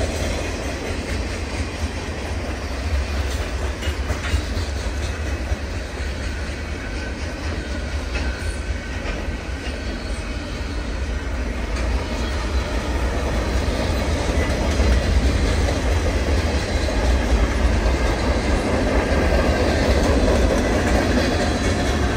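Norfolk Southern freight train passing, its wheels rumbling steadily with a clickety-clack over the rail joints, growing somewhat louder in the second half.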